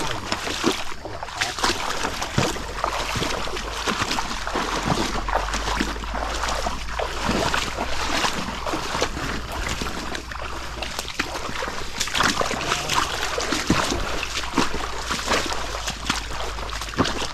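Water splashing and sloshing, with frequent small splashes and knocks, as someone moves through shallow floodwater.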